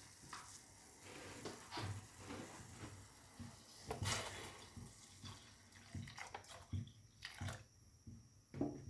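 Kitchen handling sounds: scattered small clicks and knocks of dishes and utensils, with a louder knock about four seconds in.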